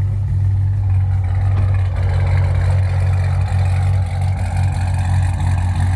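A 2010 Camaro SS's 6.2-litre V8, breathing through long-tube headers and a loud Flowmaster Outlaw exhaust, idling steadily with a deep, pulsing exhaust note.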